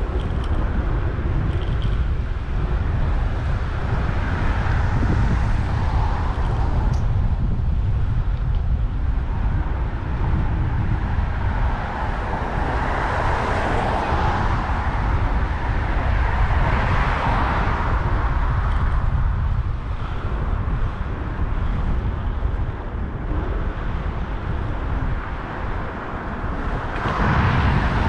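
Wind rumbling on the microphone of a moving bike, over steady city road traffic, with several vehicles swelling up as they pass, the last near the end.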